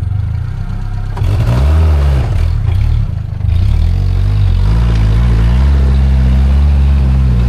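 Old Jeep Cherokee's engine revving hard under load while crawling up an off-road obstacle. The revs rise and fall about two seconds in, then are held high and fairly steady through the rest.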